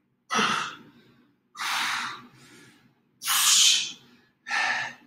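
A man's sharp, forceful breaths, four of them about a second and a half apart, pushed out with each rep of explosive push-ups.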